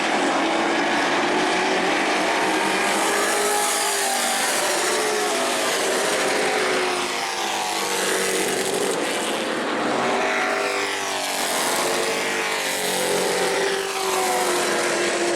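Several race trucks' engines running at speed around a short asphalt oval, the pitch rising and falling as they come by every few seconds.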